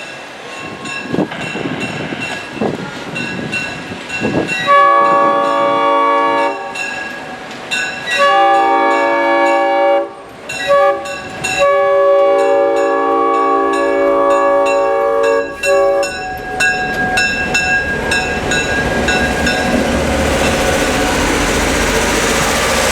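Diesel locomotive's multi-chime air horn sounding the grade-crossing signal: two long blasts, a short one and a final long blast, each a chord of several notes. After the horn, the train's rumble builds as it approaches.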